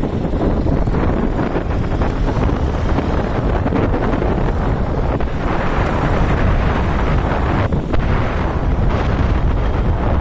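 Wind buffeting the microphone on a moving motorcycle: a steady, loud low rumble with hiss over it.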